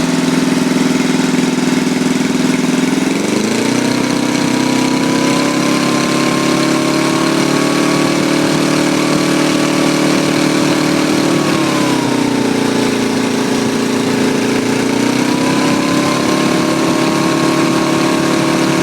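Briggs & Stratton 6 hp small engine running with a pressure-washer carburettor, its speed rising smoothly about three seconds in, holding, dropping back near the middle, then rising again.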